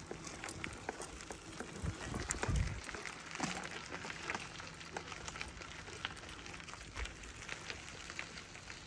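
Sausages (brats) sizzling on a small Weber grill: a faint steady hiss with many small scattered crackles and pops.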